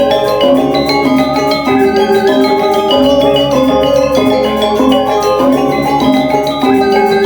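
Balinese gamelan music: bronze metallophones struck with mallets in a quick, continuous stream of ringing notes.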